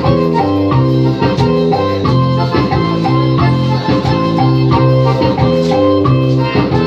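Electronic keyboard playing instrumental music in an organ voice, over a bass line and a steady programmed drum beat.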